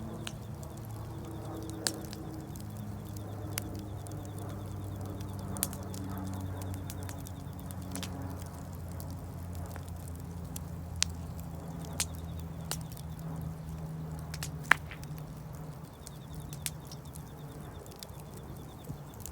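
Wood fire crackling, with about a dozen sharp, irregular pops from the burning wood over a low steady hum.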